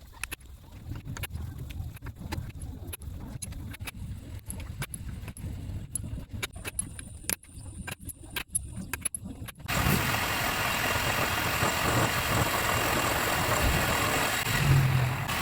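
Scattered light clicks and taps, like metal parts being handled. About ten seconds in, a loud, steady power-tool noise starts abruptly and keeps running.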